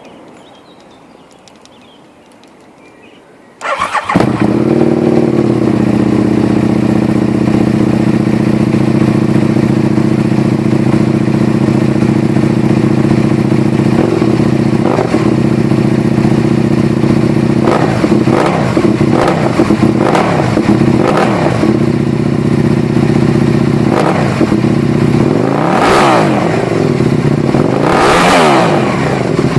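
Aprilia RSV Mille Factory's V-twin engine breathing through a Danmoto aftermarket exhaust. It starts up about four seconds in and idles steadily. It is then blipped with a few short throttle revs and revved hard twice near the end.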